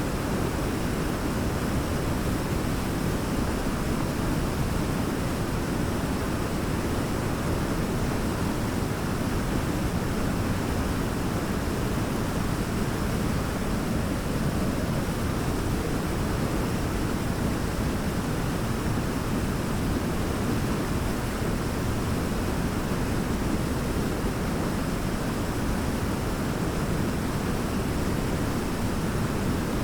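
Large waterfall's steady roar of falling water, a deep, unbroken rush with most of its weight low down.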